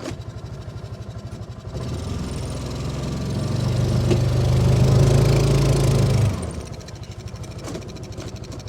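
Vehicle engine running at a low idle, then pulling harder from about two seconds in, peaking around five seconds and easing back down shortly after six, as it drives through deep snow.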